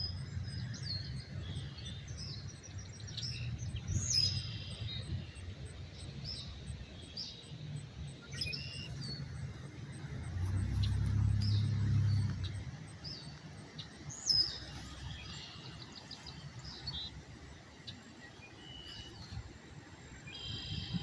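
Several wild birds chirping and calling, short calls and trills coming every second or so. A low rumble sits under them and swells for a couple of seconds about halfway through.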